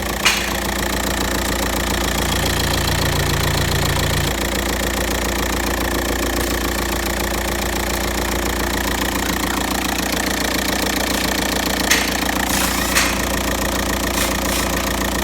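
VW Passat B6's 2.0 TDI (BMP) four-cylinder unit-injector diesel engine running steadily at idle, with a brief slight rise in engine speed a couple of seconds in. A few sharp clicks near the end.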